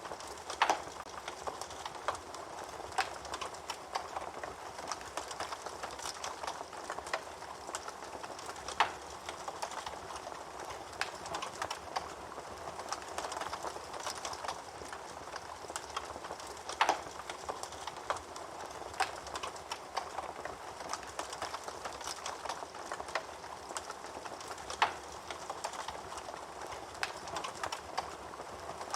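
Wood fire crackling in a fireplace: a steady hiss of burning with frequent small crackles and four louder pops spaced about eight seconds apart.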